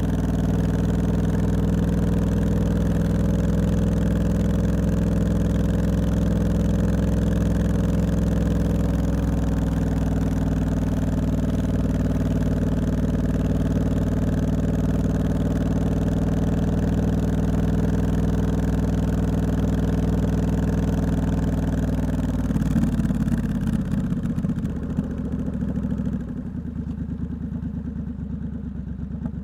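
Triumph Scrambler 1200X's parallel-twin engine through a loud Hitchcox aftermarket exhaust, running at a steady note with a rushing hiss above it. About 23 seconds in, the note changes and breaks up. From about 26 seconds it drops to a lower, quieter rumble as the hiss fades away.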